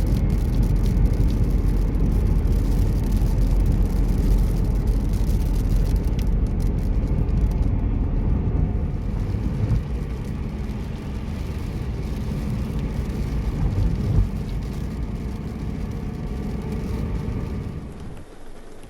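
A car running through a heavy rainstorm: a steady low rumble with rain spattering on it, dying down near the end.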